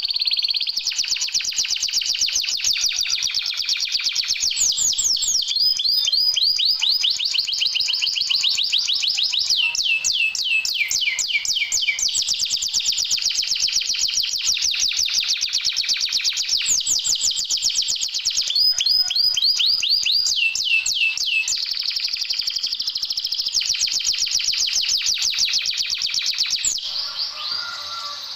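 Canary singing a long, unbroken song of very fast trills and rolling notes, broken up by runs of quick falling whistles, before it trails off near the end. This is an 'isian' track, a canary song played to stir lazy canaries into singing.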